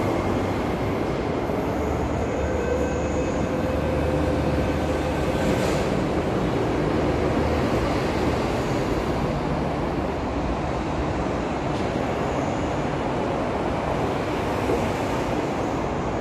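MTR West Rail line IKK electric train running through a station platform, a steady rumble of wheels and traction equipment with faint steady whines.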